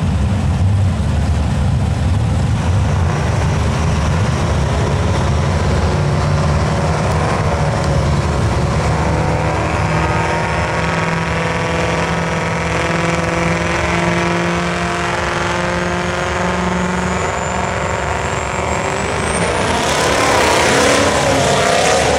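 Diesel truck engine running loud at a race track, with a thin high whine rising toward the end and a loud rush of noise about twenty seconds in.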